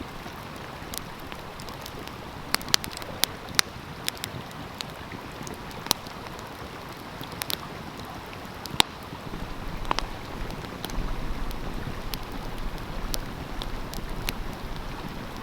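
Wood fire crackling, with scattered sharp pops, over the steady rush of a stream. About nine seconds in, the background grows louder and a low rumble joins it.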